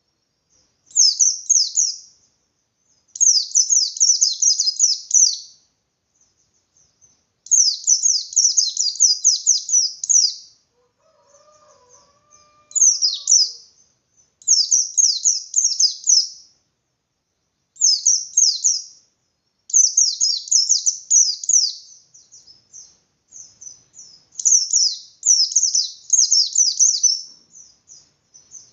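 Pleci bustomi (white-eye) singing its rapid, full-throated ngalas song. It comes in repeated fast bursts of high, downward-sweeping chirps, each burst one to three seconds long, with short pauses between them.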